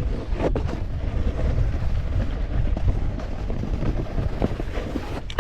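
Wind buffeting a GoPro camera's microphone during a snowboard run, a steady dense rumble with the board scraping over snow. There are a few sharp knocks, one about half a second in and a couple near the end.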